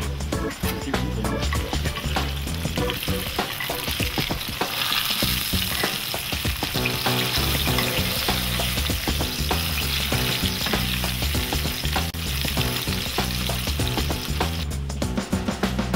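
Thin eggplant slices frying in olive oil in a pan: a steady sizzle that grows louder from about four seconds in and drops near the end, with a metal spoon moving in the pan as oil is spooned over the slices.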